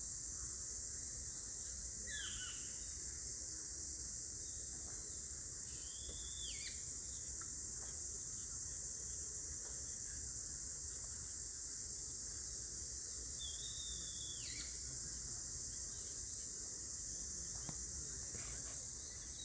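Nature ambience: a steady high-pitched hiss with a bird calling three times, short arching whistles about two, six and fourteen seconds in.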